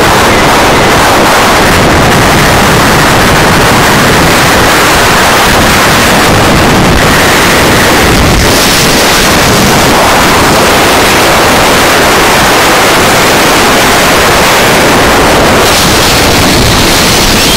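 Extreme gale-force wind blasting straight onto the microphone. It makes a constant, very loud noise that almost overloads the recording, surging slightly in strength from moment to moment.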